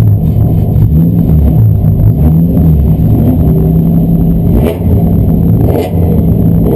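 Race car engine running loud under load, its pitch rising and falling, with two short breaks in the sound about a second apart near the end.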